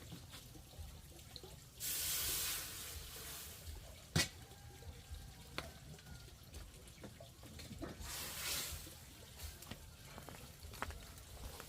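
Water pouring and splashing in two bursts, about two seconds in and again around eight seconds in, with one sharp knock about four seconds in and a few small clicks.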